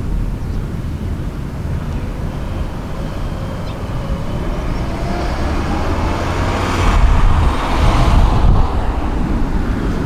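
A passing vehicle: a steady low rumble that swells to a peak about seven to eight seconds in, then eases off.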